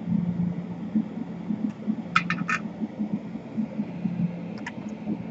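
Steady low mechanical hum, with three quick light clicks about two seconds in and a couple more near the end, like a metal tool tapping on a workbench.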